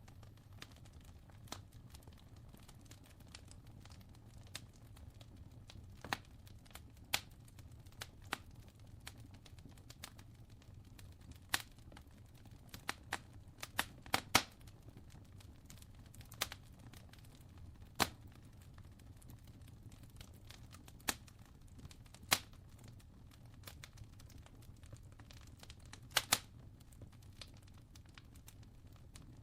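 Wood fire crackling: irregular sharp pops and snaps over a faint low steady rumble, with a cluster of louder pops about halfway through.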